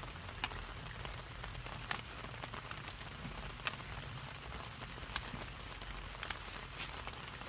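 Steady rain falling on a surface, with a handful of sharper single drops ticking close by.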